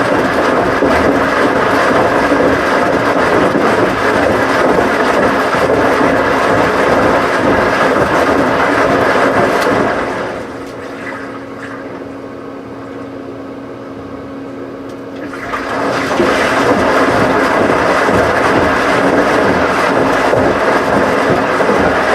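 Washing machine with water rushing steadily into or through it. The rush drops away about ten seconds in, leaving a low hum, and comes back full about five seconds later.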